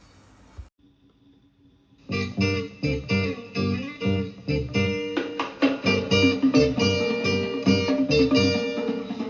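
Music: after a brief near-silent gap, guitar music starts about two seconds in, with a run of plucked and strummed notes.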